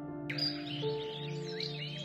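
Soft relaxation music of slow, held notes, with songbirds chirping and twittering over it. The birdsong is absent for the first moment and comes back about a third of a second in.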